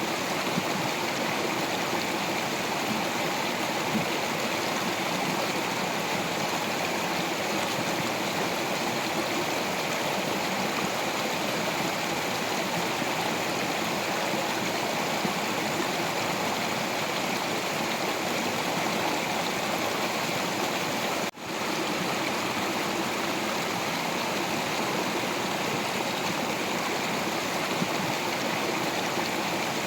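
Stream water flowing over rocks, a steady rushing and gurgling with no letup. A momentary dropout in the sound comes about two-thirds of the way through.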